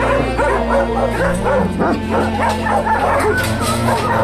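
Young dogs yipping and whining in many short, quick calls over background music.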